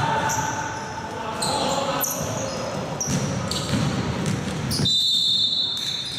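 Basketball game in a large hall: ball bouncing on the court amid players' voices, with a steady high tone starting about five seconds in.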